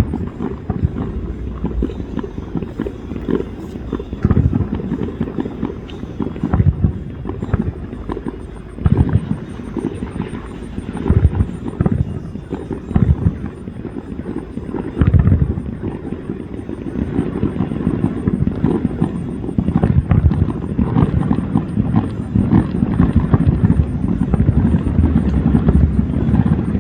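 Fireworks display: aerial shells booming every couple of seconds over a low rumble, the booms coming thicker and almost continuously in the second half.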